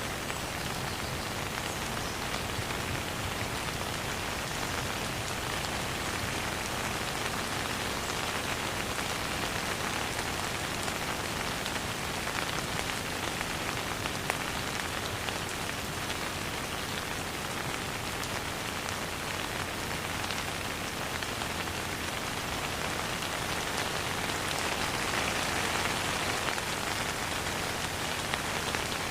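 Steady rain falling on a surface, a continuous patter of drops with no thunder, swelling slightly a little before the end.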